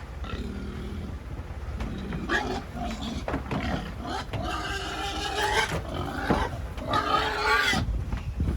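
Pigs squealing and screaming while being loaded for shipment, in loud wavering calls that come in bouts, the longest about halfway through and another near the end, over a steady low rumble.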